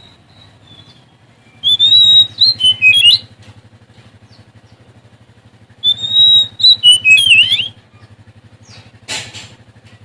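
Oriental magpie-robin (kacer) singing two loud phrases a few seconds apart, each opening on a held high whistle and breaking into quick rising and falling notes. A steady low hum runs underneath, and a short harsh noise comes near the end.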